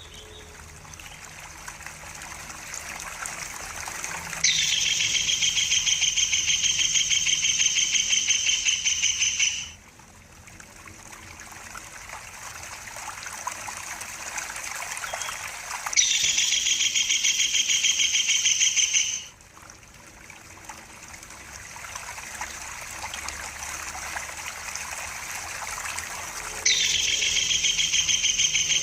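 A bird's rapid, high trill held for about five seconds, repeated three times about eleven seconds apart and cutting off abruptly each time. Between the trills, trickling water swells steadily louder.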